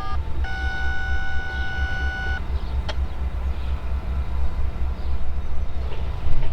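Diesel locomotive horn on an approaching freight train, one long steady blast of about two seconds after a short toot, over a steady low rumble.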